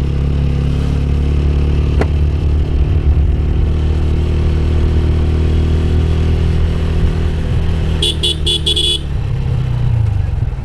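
Motorcycle engine running steadily while riding. About eight seconds in, a vehicle horn beeps four times in quick succession.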